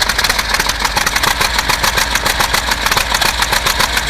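An engine running steadily in freezing cold, with a fast, even beat of exhaust pulses.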